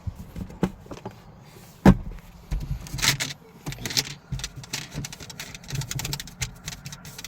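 Clicks, knocks and rattles from someone handling the car, with one sharp thump just under two seconds in, the loudest sound, and a flurry of rattling clicks about a second later.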